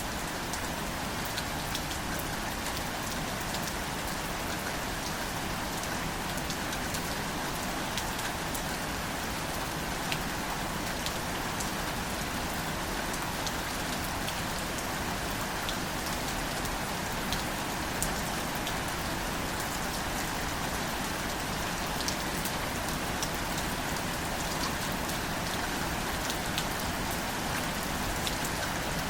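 Steady light rain falling on plants, a continuous patter with scattered individual drops ticking close by.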